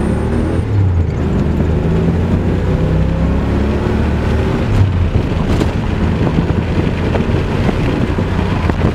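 Fox-body Mustang's 5.0-litre V8 running through Cherry Bomb Turbo Thruster mufflers, heard from inside the cabin while driving. It has a steady, fairly quiet exhaust drone that rises a little in pitch, then turns rougher and noisier about five seconds in.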